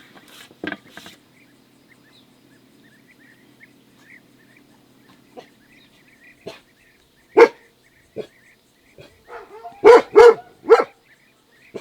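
A dog barking: one bark, then a quick run of three barks a couple of seconds later.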